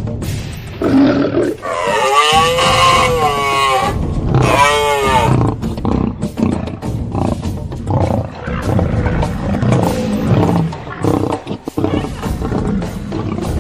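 Wild animal calls: a long, high-pitched call that rises and falls about two seconds in, then a shorter one like it, with rough, noisy animal sounds around them.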